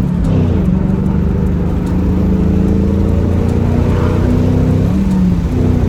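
Ford Mustang engine through a new MBRP axle-back exhaust, accelerating hard under load. The note drops at gear changes right at the start and again about five seconds in, holding steady or climbing gently in between.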